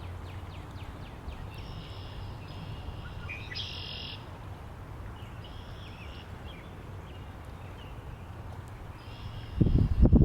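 Small birds calling and singing in short repeated phrases: a run of quick chips at the start, then trilled phrases on and off. Under them a steady low wind rumble, and near the end a strong gust buffets the microphone.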